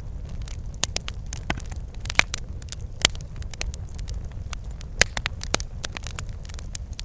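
Wood fire burning in a fireplace: irregular crackles and sharp pops over a steady low rumble of the flames, with a few louder snaps.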